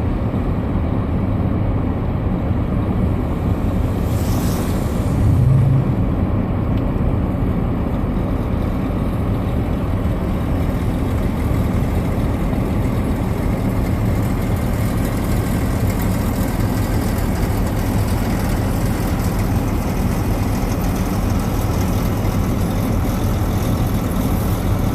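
Steady low rumble of a Ford Fusion's engine and tyres heard from inside the cabin while driving on snow-covered roads, with one brief louder low thump about five seconds in.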